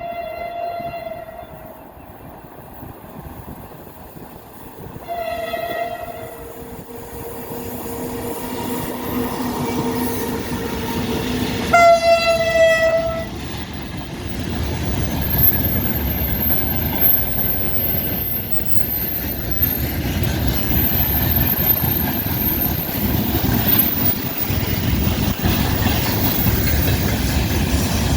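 BKG1 electric locomotive hauling a freight train: three short horn blasts, near the start, about five seconds in and about twelve seconds in. After the third blast the train's rolling noise grows louder as it passes, with wheel clatter and a thin high whine.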